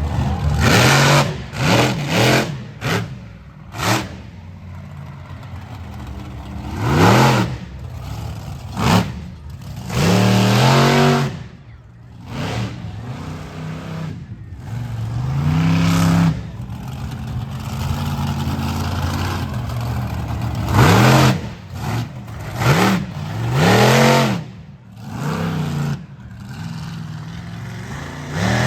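Monster truck engine revving hard in repeated surges, its pitch climbing and falling again every few seconds during a freestyle run.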